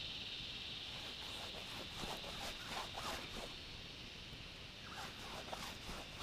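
Irregular rubbing and scraping strokes of a wax paste being worked into a canvas army kit bag, over a steady high drone.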